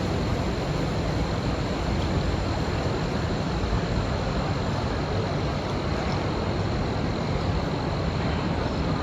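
Steady outdoor background noise with a low rumble and no distinct events, and a faint steady high tone running through it.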